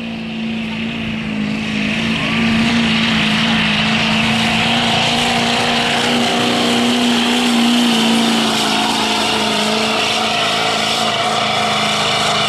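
Chevy 2500 pickup's Duramax diesel engine at full throttle, pulling a weight-transfer sled down the track, held at a steady high pitch for the length of the run.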